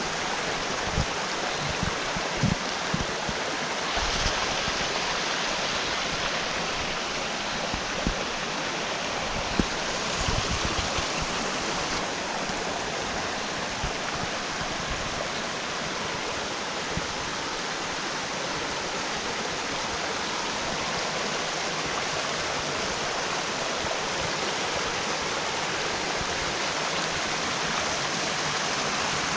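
Mountain stream rushing steadily, running full after 22 mm of rain.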